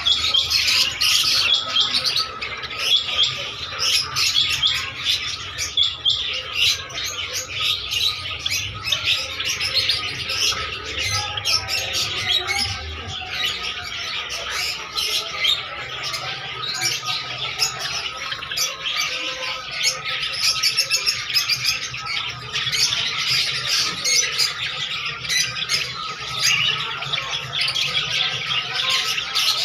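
A dense chorus of many small caged birds chirping and squawking at once, unbroken and fairly loud.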